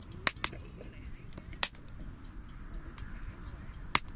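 Wood fire crackling: sharp pops of burning wood, a few close together at the start, one in the middle and a loud one near the end, over a steady low rush of the flames.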